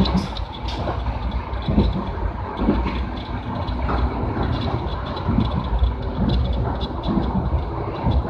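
Passenger train running along the track: a steady rumble with irregular low thumps from the wheels on the rails.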